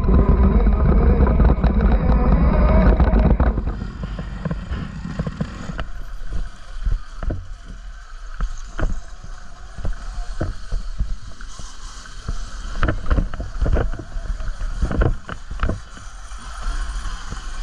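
Off-road bike ride noise: a loud rush for about the first three seconds, then quieter with many irregular knocks and rattles, like a bike jolting over rough ground.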